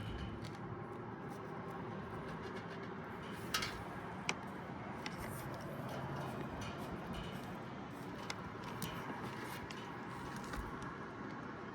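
Steady background rumble and hiss with a few short, light clicks and taps from wires and metal parts being handled, the sharpest about three and a half and four seconds in.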